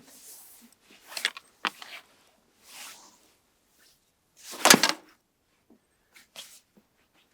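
A few short handling noises: sharp clicks and soft knocks, with one louder, half-second rustling burst about halfway through.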